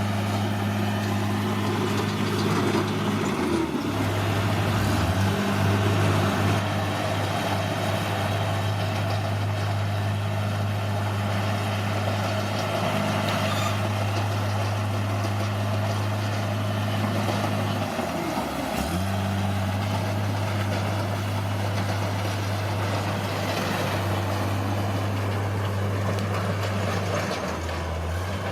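Bulldozer's diesel engine running steadily under work, with a constant clatter of tracks and earth over it. The engine note dips briefly twice, early on and again past the middle, as the load changes.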